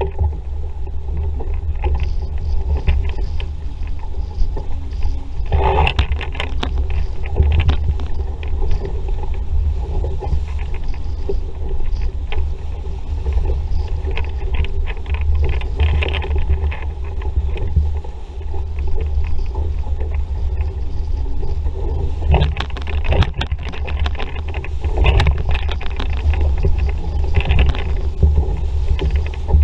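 Wind buffeting the microphone with water rushing and splashing along a sailing dinghy's hull under way, and louder bursts of spray every so often, several of them near the end.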